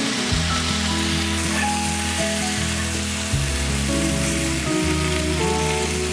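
Herb-marinated chicken sizzling in a hot, oiled ridged grill pan, mixed with background music of slow, held chords.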